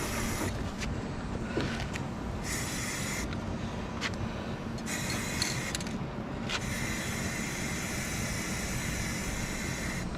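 Paint spraying onto a boat hull, hissing in several short bursts and then in one long pass from about six and a half seconds in, over a steady low hum.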